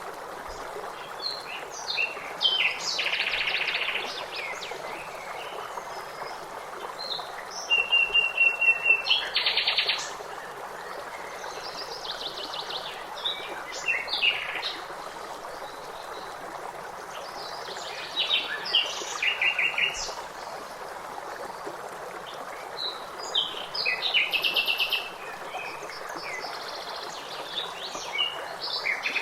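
Several songbirds singing and chirping in short phrases and rapid trills over the steady rush of a stream. The loudest is a fast trill about eight seconds in.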